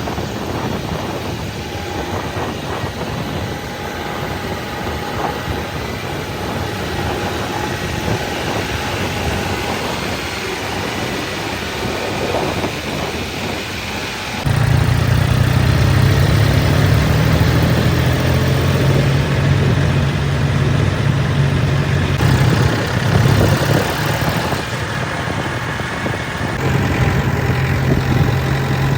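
Diesel engines of a backhoe loader and tractors running. About halfway through, the sound steps up abruptly to a louder, deeper engine note that holds to the end.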